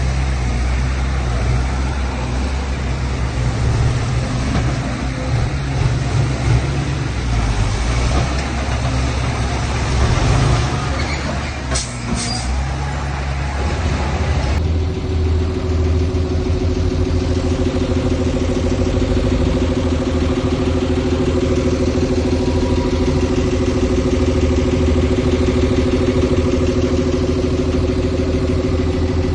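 Heavy diesel machinery engines running: first a rough, noisy engine under work with a couple of short hisses about twelve seconds in, then an abrupt change to a steady, even engine hum.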